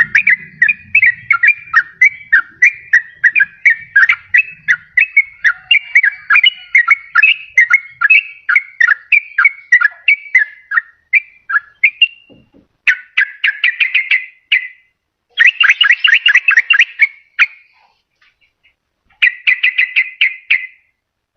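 Yellow-vented bulbul (trucukan) singing: a fast, steady run of bubbly notes for about twelve seconds, then three short, rapid chattering trills with brief pauses between them.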